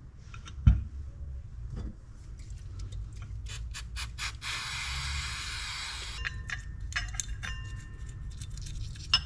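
Small metal fishing-reel parts being handled on a bench: scattered clicks and light clinks, a thump just under a second in, and a steady hiss lasting nearly two seconds about halfway through. Near the end come brief ringing clinks of metal parts.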